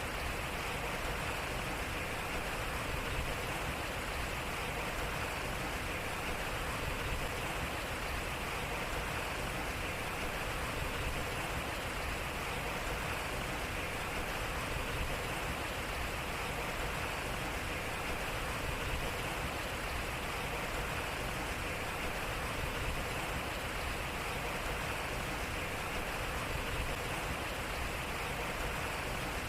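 Water running and splashing off a turning waterwheel, a steady rushing flow.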